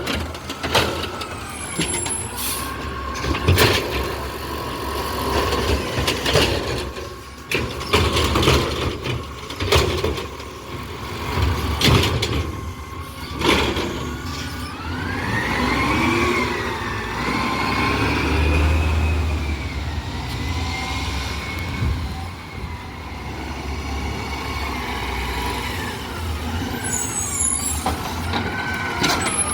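Garbage truck at work. A run of sharp knocks and bangs over the first half, then the engine running with a whine that rises and falls over most of the rest.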